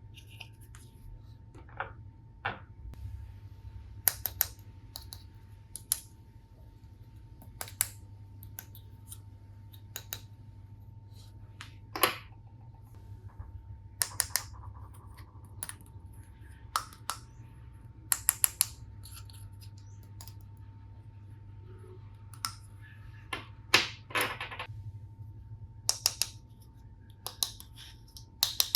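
Plastic toy tool-set pieces clicking and clacking as they are handled and set down: sharp, irregular clicks, some single and some in quick runs of two to four.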